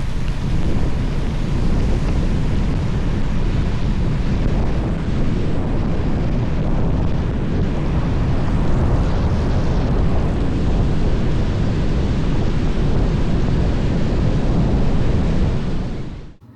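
Wind buffeting the microphone: a loud, steady low rumble and rush that cuts off abruptly near the end.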